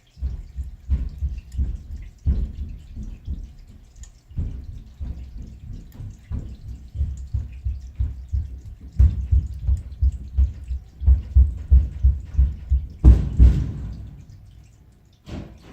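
Toilet flush water running through a drain pipe: a run of irregular low thuds and sloshes, heaviest about three-quarters of the way through, then fading, with one last short splash just before it stops.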